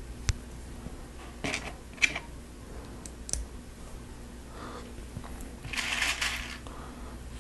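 Plastic Lego Technic pieces being handled and fitted: a sharp click just after the start, then a few short clicks and rattles, and a longer rustle about six seconds in.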